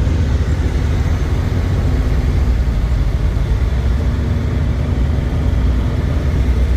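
Truck engine running steadily, a continuous low-pitched drone with no change in level.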